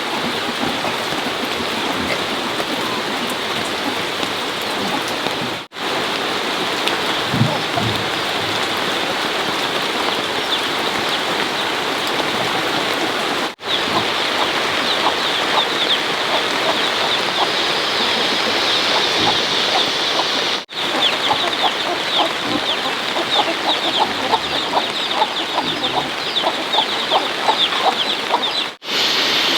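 Steady rain with chickens clucking, the clucking busier in the second half. The sound breaks off for an instant four times.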